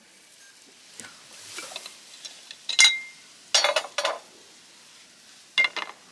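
Objects being handled with a few sharp knocks and clatters in three short groups, one with a brief metallic ring.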